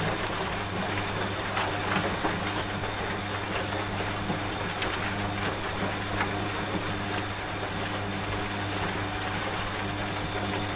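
Washing machine running with a steady low hum, mixed with steady rain and the scattered taps of individual drops.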